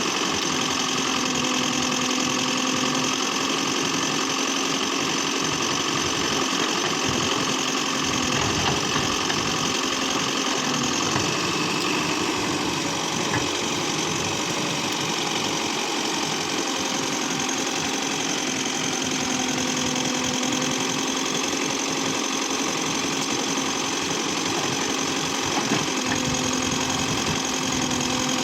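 Heavy diesel engine running steadily, its pitch sagging for a few seconds around the middle before picking back up.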